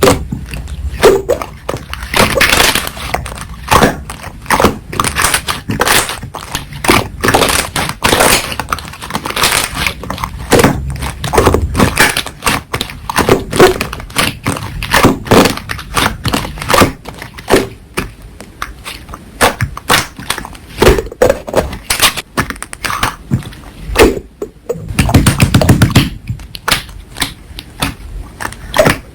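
Slime being squeezed, stretched and poked by hand, giving a rapid, irregular run of wet clicks and air-bubble pops, with a longer squelch a few seconds before the end.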